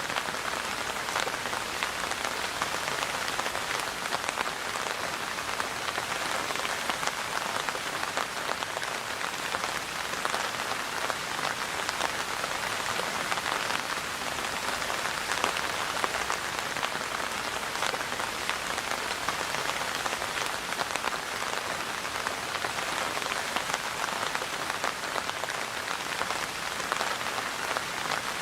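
Steady rainfall, a dense even hiss of drops with fine individual drop ticks, not changing in strength.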